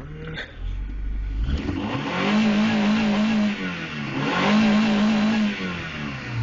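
1994 Honda Accord EX's 2.2-litre four-cylinder engine, warmed up, revved to redline twice. Each time the pitch rises, holds near the top with a wavering note for about a second, then falls back toward idle.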